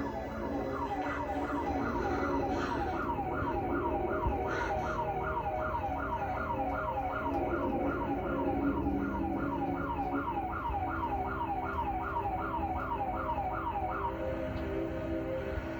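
Emergency vehicle siren in a fast yelp, about three falling wails a second, over a low rumble; it stops about 14 seconds in.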